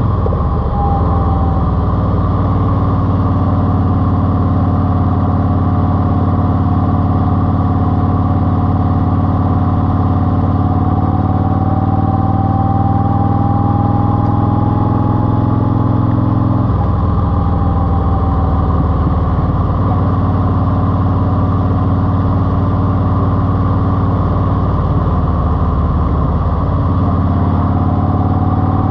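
Eluder GT's engine running steadily through a TAB exhaust with 2.5-inch baffles, its note shifting slightly about halfway through, with a thin wavering whistle over the exhaust sound.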